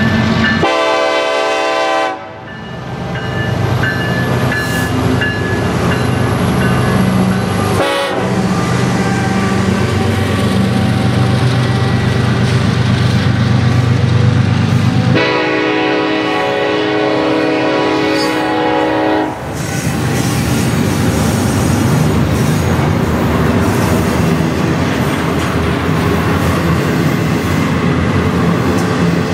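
Double-stack intermodal freight train rolling past close by, a steady rumble and clatter of wheels and well cars. A diesel locomotive's multi-note air horn sounds a blast about a second in, a short toot near eight seconds, and a longer blast of about four seconds around the middle.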